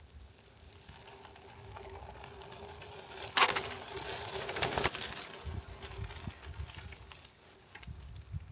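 Folding bicycle being ridden, with wind rumbling on the microphone and a faint steady hum. For about a second and a half in the middle there is a louder clattering rattle.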